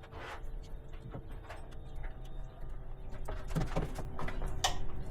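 Scattered clicks and light knocks of hand tools and heavy service wire being handled against a metal electrical enclosure, coming closer together and louder in the second half.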